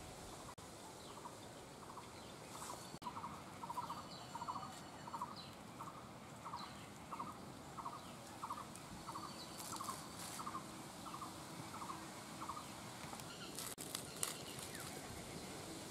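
A bird calling in a steady repeated series of short, rattling notes, about one every 0.6 seconds, which stops about two-thirds of the way through. Near the end come a few crisp crunching clicks of leaves being cut on a blade.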